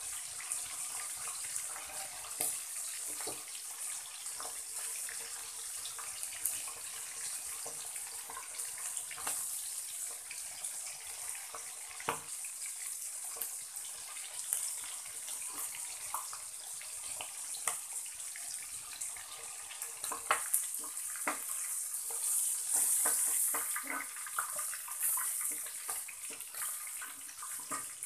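Pork steak slices frying in hot oil in an aluminium wok: a steady sizzling hiss with scattered crackles and pops, louder for a few seconds about three quarters of the way through.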